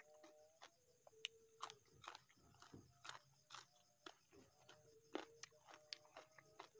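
Close-miked eating by hand: chewing with many quick, soft mouth-smacking clicks and light crunches.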